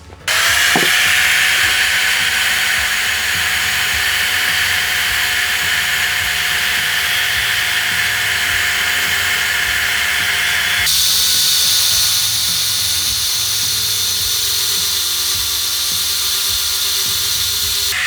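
A power tool grinding steel, giving a steady grinding hiss with a faint motor tone beneath it. About eleven seconds in, the sound changes abruptly to a higher, brighter hiss.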